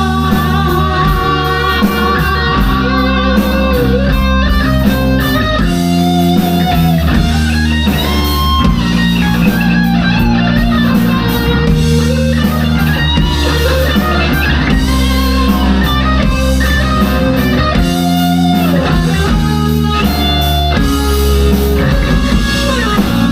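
Live rock band playing an instrumental passage: an electric guitar carries a wavering melodic line over bass guitar and drums.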